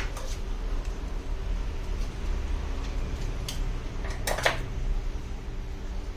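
A few light clicks and clinks of small hard objects, the loudest a close pair about four and a half seconds in, over a steady low hum.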